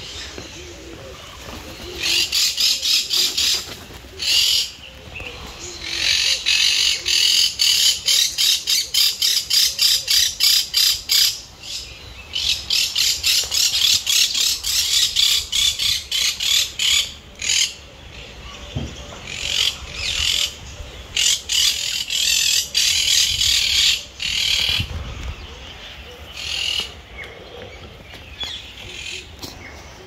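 A bird calling loudly in long runs of rapid, evenly repeated high notes, about four a second, broken by short pauses, in a forest aviary.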